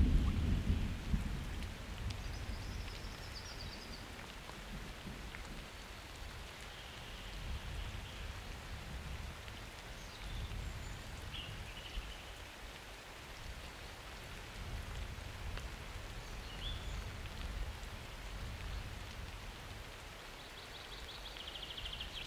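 Steady summer rain with thunder: a low rumble dies away over the first couple of seconds, and softer low rumbling carries on under the rain.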